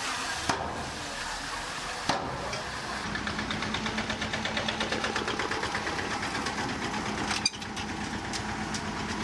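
Heavy diesel engine of earthmoving machinery running, with a fast, even pulsing and a steady hum that set in about three seconds in. Three sharp clicks are heard: about half a second in, about two seconds in and near the end.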